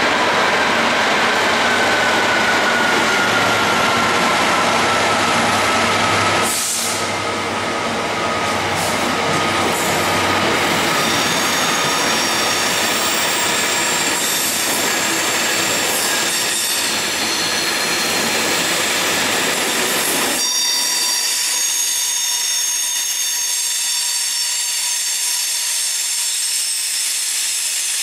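A Class 66 diesel locomotive runs past hauling a freight train, its engine loud for the first six or so seconds before it fades. A long rake of wagons then rolls by, the wheels squealing in several steady high tones that stand out clearly in the last seconds.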